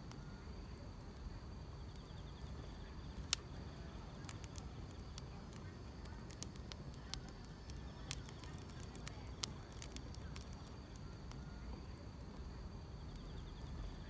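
Wood fire crackling, with irregular sharp pops (the loudest about three seconds in) over a low steady rumble, while grass insects chirr faintly and steadily in the background.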